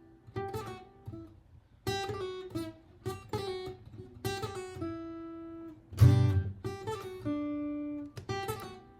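Martin GPCPA4 acoustic guitar played fingerstyle: separate plucked notes and chords, some left ringing, with a loud strummed chord about six seconds in.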